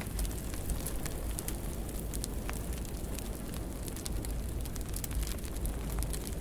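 Wood fire burning in a fireplace: a steady low rumble of the flames with frequent small, sharp crackles and pops.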